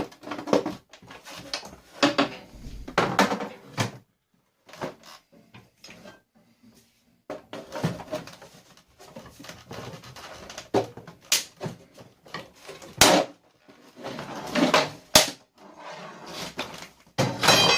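Hard plastic parts of a Russell Hobbs vacuum cleaner knocking, clicking and rattling as it is pulled apart by hand for scrap. The sounds come in irregular bursts, with a few sharper knocks.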